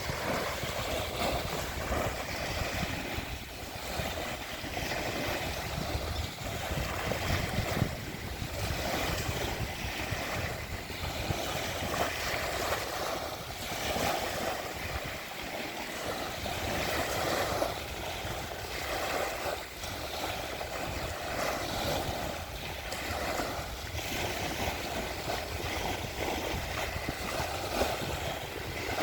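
Sea of Azov surf: waves breaking and washing ashore in slow swells, with some wind on the microphone.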